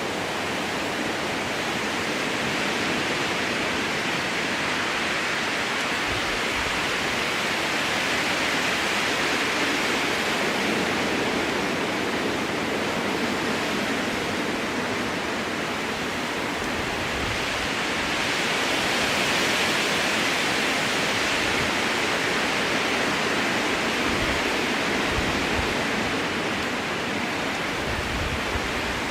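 Strong wind blowing through a spruce forest: a steady rushing that swells and eases in slow gusts, with occasional low rumbles.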